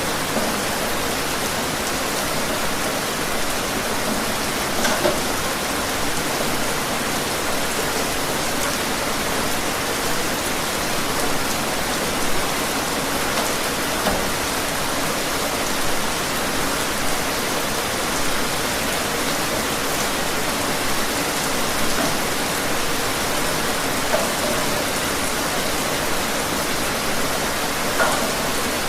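Steady, heavy rain falling, with a dense hiss and the occasional louder drop landing close by.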